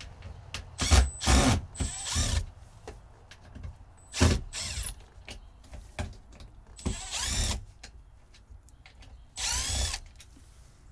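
A handheld power tool's small electric motor run in about seven short bursts, its pitch rising and falling as it spins up and winds down each time.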